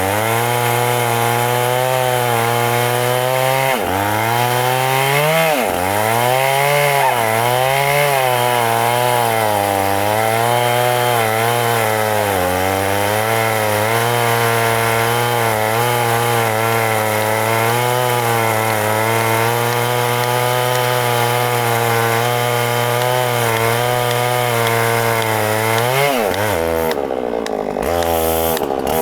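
Two-stroke chainsaw cutting into a very thick tree trunk at high revs. The engine pitch sags and recovers several times under load in the first ten seconds, then holds steady. Near the end the cutting noise briefly drops away and the pitch shifts.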